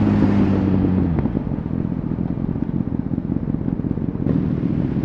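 Honda CBR1000RR Fireblade's inline-four through an aftermarket Shark Factory exhaust, holding steady revs, then dropping in pitch about a second in as the revs fall, settling into a lower, rough rumble.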